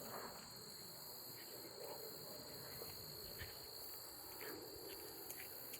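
Insects trilling steadily in a high, continuous drone, with a few faint ticks.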